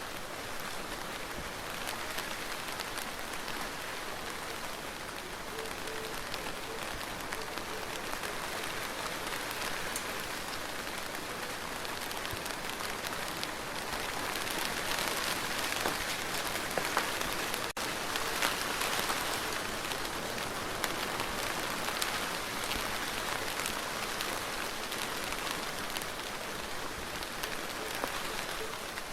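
Steady rain falling on a surface, an even hiss with many small drop ticks, swelling a little in the middle.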